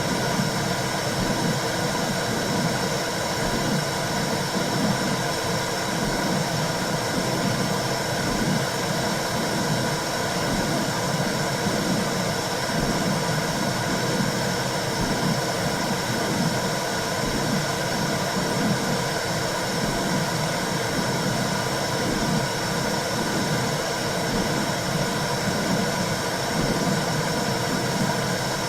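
Womb-sound track for soothing a newborn: a steady whooshing noise with a low, even pulsing underneath.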